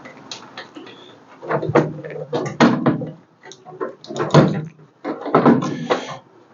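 Hand tools and loose metal parts clanking and rattling in three bunches of irregular knocks, in the middle, around four seconds in and near the end, during the unbolting of a starter solenoid from the engine bay.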